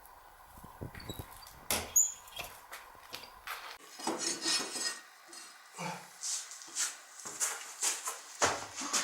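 Metal clinking and knocking in an irregular series of sharp strikes, a few of them ringing briefly about two seconds in.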